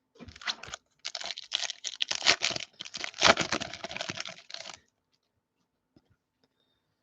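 Foil trading-card pack wrapper being torn open and crinkled, a dense crackling rustle that stops after about five seconds.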